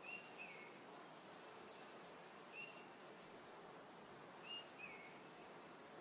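Faint calls of small songbirds: a short falling call near the start and again about four and a half seconds in, with scattered thin, high chirps in between, over a quiet backyard background.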